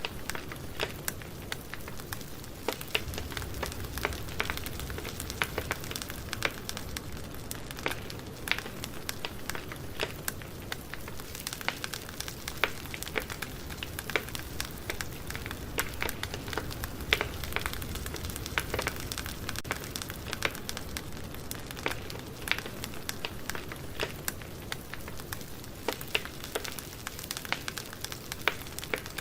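Campfire burning, with a steady low rushing of the flames under frequent sharp, irregular crackles and pops from the wood.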